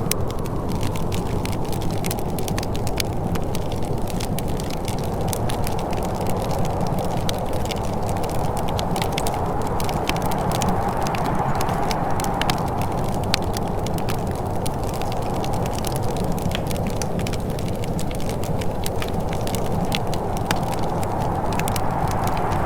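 Wood fire crackling, with many small sharp pops and snaps, over a steady low rushing that swells and eases slowly, like soft wind.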